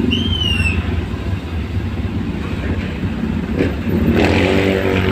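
Motor vehicle engines running in road traffic, with a short, high squeal at the very start and a louder vehicle revving or passing close near the end.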